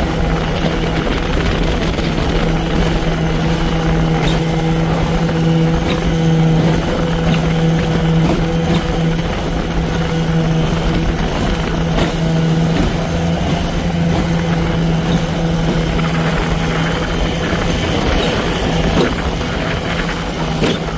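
Vintage Johnson 20 hp two-cylinder two-stroke outboard motor running at cruising speed on a small boat, a steady drone with wind and water noise. The engine note weakens in the last few seconds.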